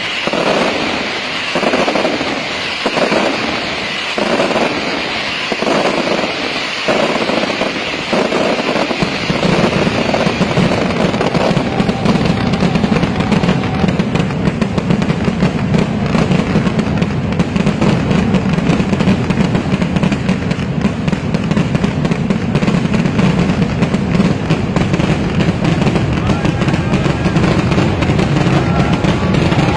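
Mascletà pyrotechnics detonating. For the first nine seconds or so, heavy bangs come in a steady rhythm of a little more than one a second. From about ten seconds on they merge into a dense, unbroken barrage of explosions that grows louder.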